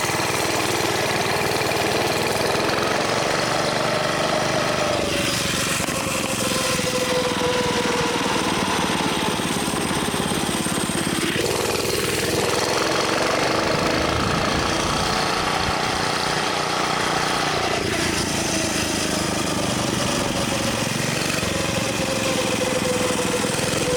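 Small mini bike engine running steadily, its pitch sliding slowly down and then jumping back up about every six seconds.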